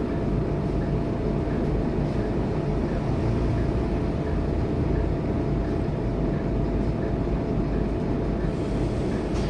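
Scania K230UB city bus's diesel engine running steadily under way, a continuous low rumble mixed with road noise.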